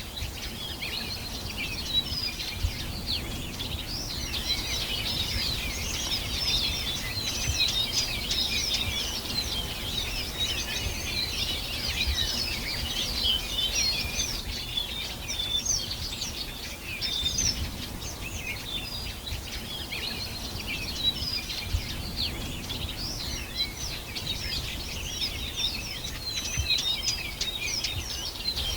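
Many songbirds chirping and singing at once in a dense, unbroken chorus of short high calls and trills, over a low steady rumble.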